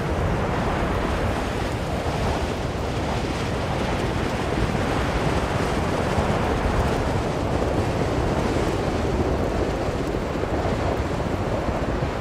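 Blizzard wind blowing steadily in a low, full rush, swelling and easing slowly.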